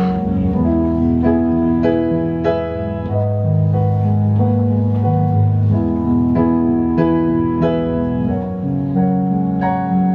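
Keyboard set to a piano sound playing slow, held chords, with new notes struck about every half second to second.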